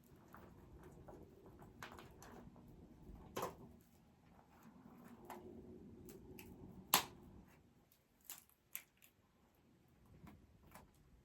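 Campfire of dry dead branches crackling, with irregular sharp pops and snaps. The loudest snap comes about seven seconds in.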